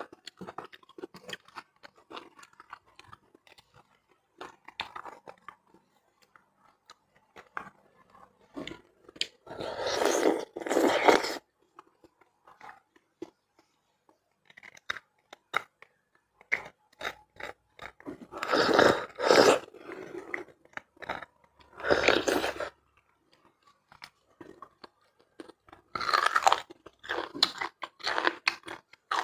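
Close-miked wet chewing of braised beef bone marrow, with many small mouth clicks and four louder bursts spaced a few seconds apart.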